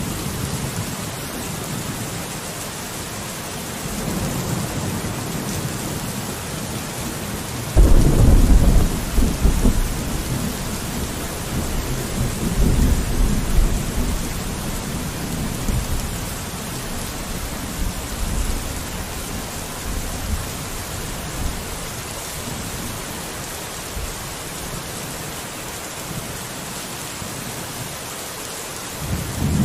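Steady rain falling on a window, with a low roll of thunder that breaks in suddenly about eight seconds in and rumbles on for several seconds, and another low rumble starting near the end.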